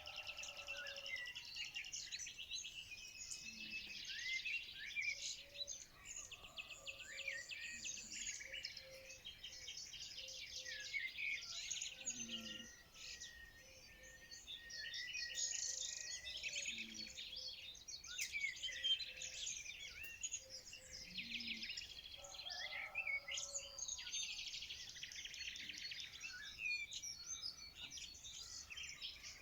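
Songbirds chirping and singing together: a dense chorus of overlapping rapid chirps and trills that never stops.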